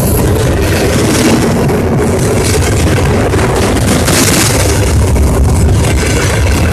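Freight wagons of an intermodal train rolling directly overhead, heard from between the rails: a loud, steady rumble and rattle of wheels and bogies.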